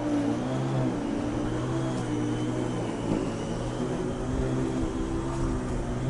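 A steady, droning engine hum that wavers slightly in pitch throughout.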